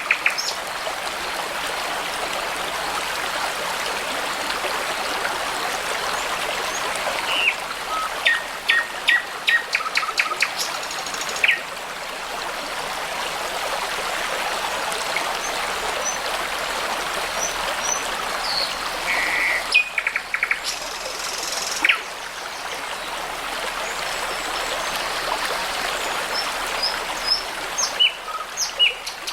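A babbling brook runs steadily while small birds chirp and sing over it in scattered short phrases. The birdsong comes in three bursts: about a quarter of the way in, around two-thirds of the way through, and near the end.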